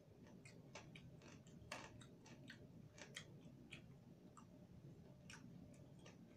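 Faint, irregular crunching clicks of crispy pork belly being chewed, over a low steady room hum.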